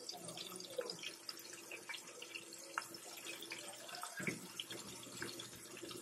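Breaded chopped steak frying in hot oil in a pan: a faint, steady sizzle with scattered small crackles and pops.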